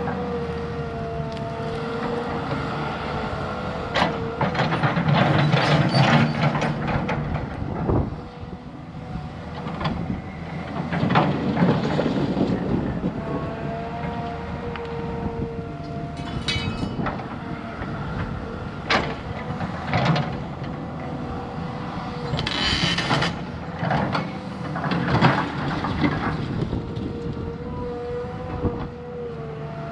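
Heavy diesel earthmoving machine working: a steady engine and hydraulic whine under low rumble, with repeated knocks and clanks and a few louder noisy surges as it digs and moves dirt.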